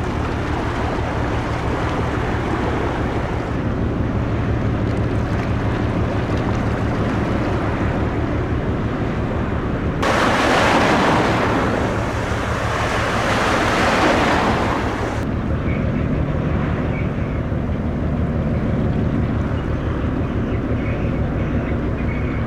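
Low steady throb of a passing container ship's engine under a wash of water and wind noise. About ten seconds in, a louder rushing hiss cuts in sharply, lasts about five seconds and cuts out just as sharply.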